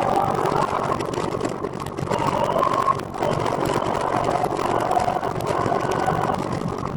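Continuous riding noise from a recumbent trike on the move: a steady rumble with a whine that wavers in pitch, dipping briefly about three seconds in.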